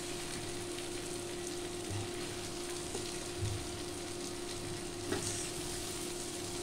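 Fully cooked potato and brinjal (aloo baingan) sizzling in mustard oil in a kadhai on an induction cooktop while a steel spoon stirs and lifts it, with a few soft spoon scrapes. A steady hum runs underneath.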